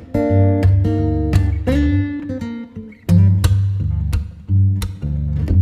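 Background music: strummed acoustic guitar chords with a steady low bass note under them.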